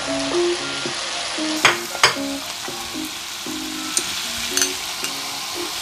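Sizzling and stirring in a wok as fried squid pieces go into hot garlic sauce, with two sharp knocks about a second and a half in. Soft background music plays underneath.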